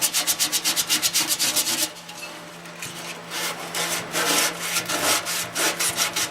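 Sandpaper rubbed by hand inside a cut-open steel VW fuel tank in quick back-and-forth strokes, about six a second, scrubbing out the crud; the strokes pause briefly about two seconds in, then start again in short runs.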